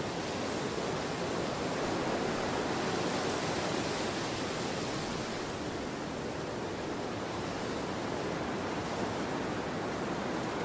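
Steady rushing of a windstorm's wind, swelling a little a couple of seconds in and easing off again.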